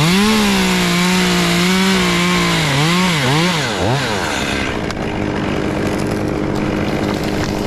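Two-stroke chainsaw revved sharply to full throttle and held at high speed, then blipped twice and let back down to idle about four seconds in. A steady engine drone runs underneath throughout.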